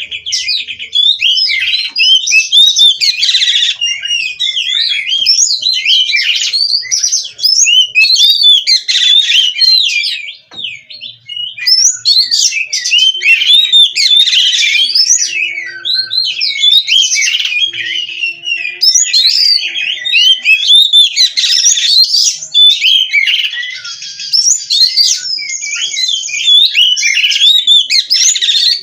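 Oriental magpie-robin (kacer) singing nonstop, a rapid stream of varied whistled phrases that glide up and down in pitch, with a brief break about ten seconds in.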